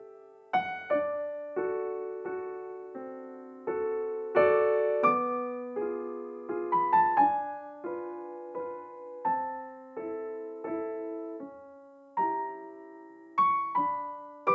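Background music: a slow, gentle piano piece of single notes and chords, each struck and left to fade.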